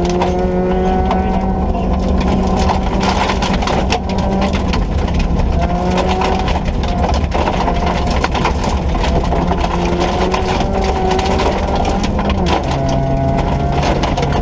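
Ford Ka's 1.4-litre four-cylinder engine driven hard on a rally stage, its note climbing through the revs and dropping back at gear changes several times. It runs under a constant low rumble with frequent clicks and knocks.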